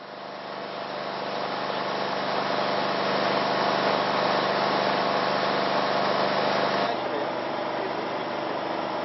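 A vehicle engine running steadily, fading in over the first couple of seconds, with its sound changing about seven seconds in.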